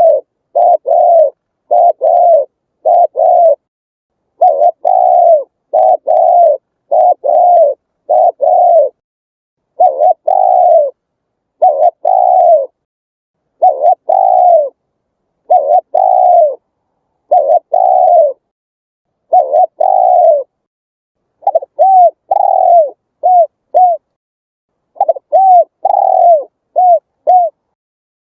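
Spotted dove cooing over and over: short coo notes, each rising and then falling in pitch, in runs of two to four with brief silences between them. Near the end the notes become shorter and quicker.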